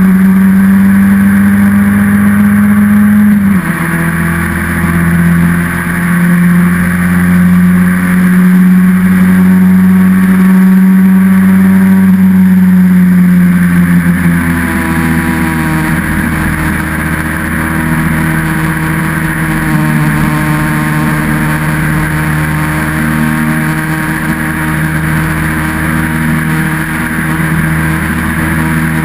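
Austin Seven monopost racing car's small four-cylinder engine heard close up from onboard, running hard at steady revs. Its note drops in pitch twice, about three and a half seconds in and again about fourteen seconds in, then holds steady at the lower pitch.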